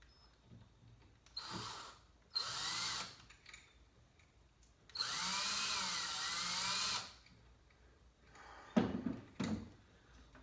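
Electric drill run in three short bursts, its motor speeding up and slowing down with the trigger; the last run lasts about two seconds. Two sharp knocks follow near the end.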